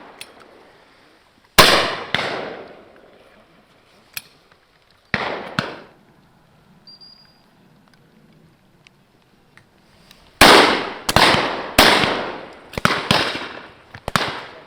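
Shotguns firing at driven game birds: a single shot, another about five seconds in, then a rapid run of about seven shots from several guns in the last four seconds. Each shot dies away in a long echo.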